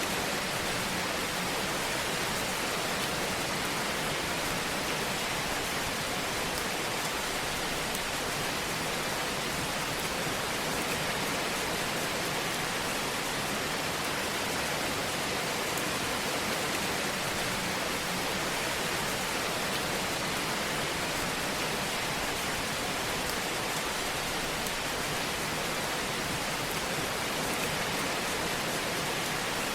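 Fireplace fire making a steady, even hiss, with faint small crackles.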